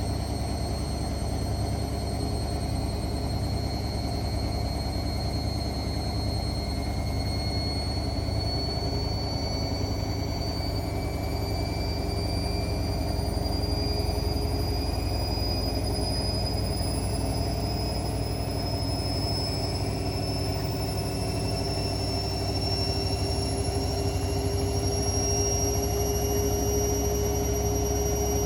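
Hotpoint WML540 washing machine running, its motor whine climbing slowly and steadily in pitch over a low rumble as the drum gradually speeds up.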